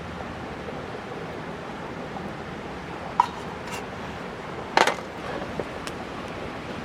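Wood fire burning under a grill pan: a steady rushing hiss, with a sharp click about three seconds in and a louder knock near five seconds.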